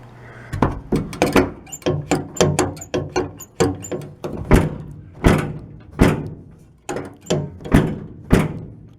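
Pickup tailgate and its latch being worked and knocked shut: a rapid, uneven series of sharp clunks and knocks with short metallic ringing. The latch is not catching, and the tailgate still won't stay shut.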